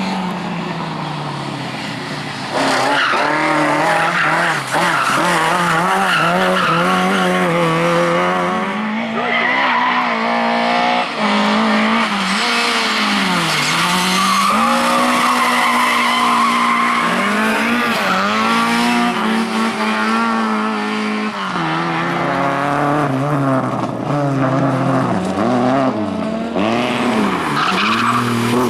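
Rally car engine at full attack, revving hard and dropping repeatedly with gear changes and lifts, with tyres skidding on the loose surface. The sound jumps louder about three seconds in.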